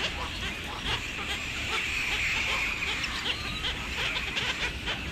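Many birds calling at once in a dense, continuous chatter of short high calls, over a steady low rumble.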